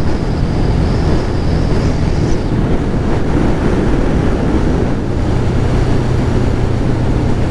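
Kawasaki ZX-11 Ninja's inline-four engine running steadily under way, with wind rushing over the microphone.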